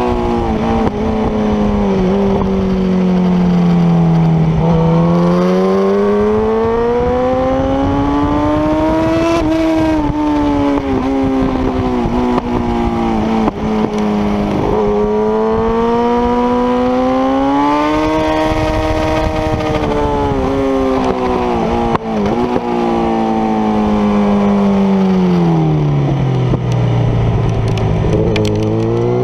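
Motorcycle engine at track speed heard from on board, its note rising and falling slowly as the rider accelerates and slows through the corners, with wind rushing over the microphone. The note drops to its lowest late on, then climbs again just before the end.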